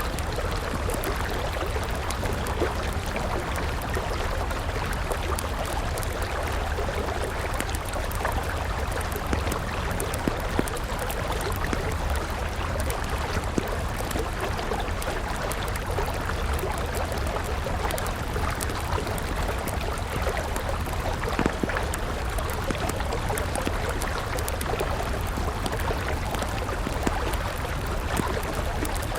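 A river flowing steadily, with the frequent small crackles and pops of a burning wood campfire over it.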